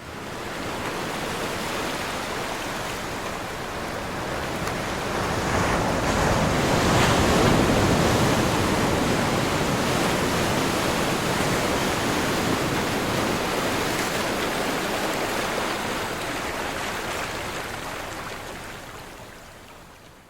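Ocean waves breaking on a shore: a continuous wash of surf that rises quickly, swells to its loudest about seven seconds in, then slowly fades away near the end.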